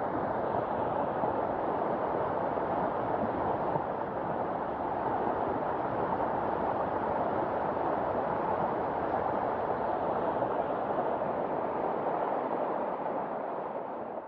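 Fast-flowing floodwater rushing in a steady, even noise that fades out near the end.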